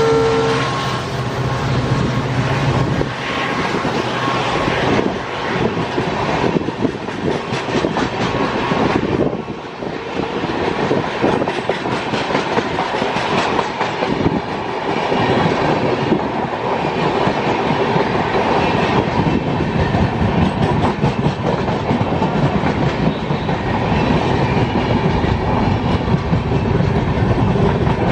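A diesel-hauled passenger train passing close by: a loud, steady rumble with rapid clicking of wheels over rail joints. A horn note dies away in the first second.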